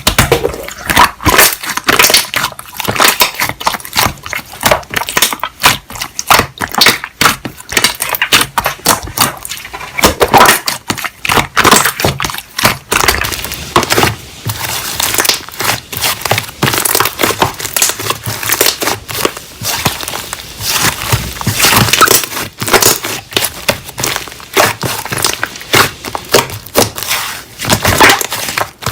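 Slime being squished and kneaded by hand, making a dense run of crackling, popping clicks.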